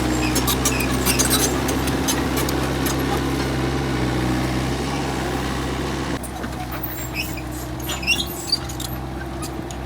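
Excavator's diesel engine running steadily, with scattered sharp clicks and knocks and a few short high squeaks. The engine sound drops to a lower level about six seconds in.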